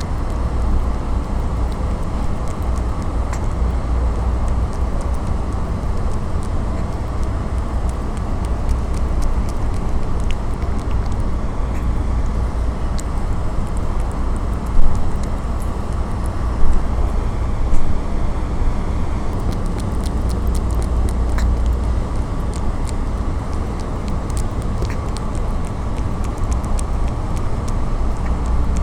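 Steady low rumble of street traffic, with three sharp knocks about halfway through.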